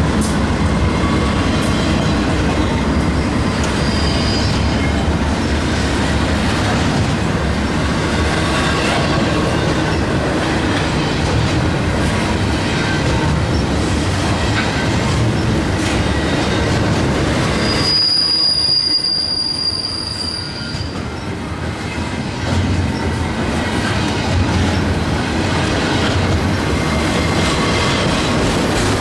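A freight train's cars rolling past with a steady rumble of steel wheels on rail. About two-thirds of the way through, the rumble eases for a few seconds and a single high wheel squeal rings out over it.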